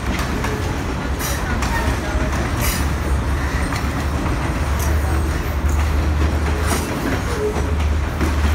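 Sri Lanka Railways diesel passenger train passing slowly close by: a steady low rumble with the wheels clicking over rail joints every second or two.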